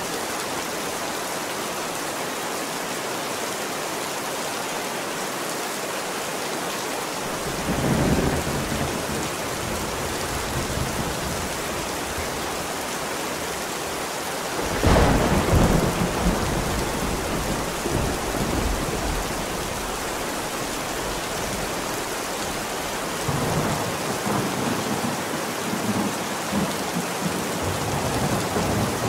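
Thunderstorm: steady heavy rain with rolls of thunder, one about seven seconds in, a louder one about halfway that rumbles for several seconds, and another near the end. The mix is 8D audio, panned around the listener.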